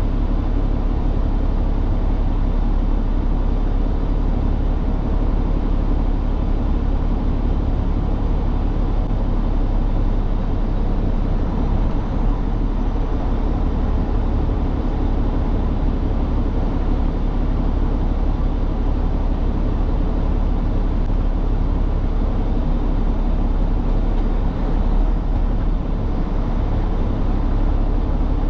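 Semi truck's diesel engine running with a steady low rumble, unchanging throughout.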